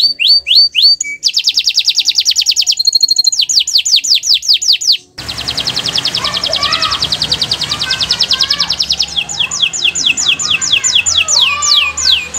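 Domestic canary singing: fast trills of rapidly repeated notes alternating with slower runs of downward-sweeping whistled notes, several a second. About five seconds in the song breaks off and resumes at once over a background hiss with fainter, lower calls of other birds.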